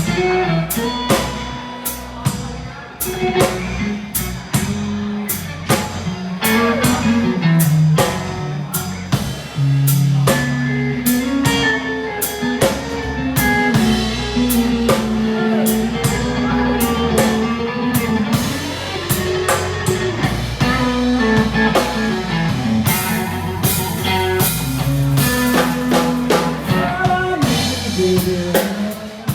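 Live blues band playing: electric guitar lead over a drum kit and bass, with regular drum strokes throughout.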